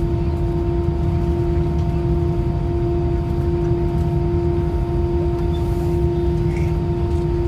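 Airbus A319 cabin noise: a steady low rumble with a constant droning tone over it, unchanging throughout.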